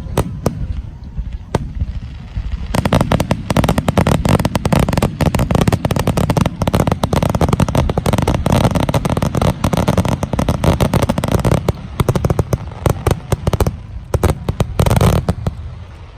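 Aerial fireworks bursting: a few separate bangs, then from about three seconds in a dense barrage of shells going off in rapid succession, ending in a loud final burst shortly before the end.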